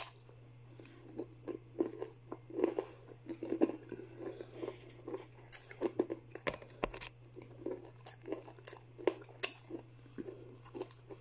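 Close-up chewing and crunching of crispy Jollibee fried chicken, with irregular sharp crackles of the breading as pieces are bitten and pulled apart by hand. A steady low hum runs underneath.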